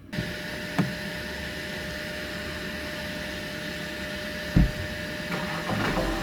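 Steady mechanical hum and hiss with a constant tone, broken by two dull thumps, one about a second in and a louder one about four and a half seconds in.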